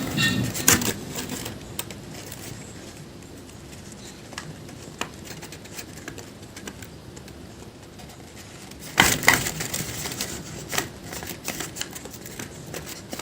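Scissors cutting paper: a run of short snips and paper rustling, loudest at the start and again about nine seconds in.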